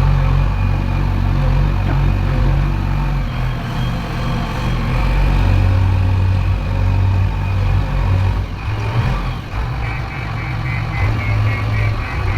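Heavy diesel engine running steadily under load, low and continuous. A fast, high-pitched pulsing sound joins near the end.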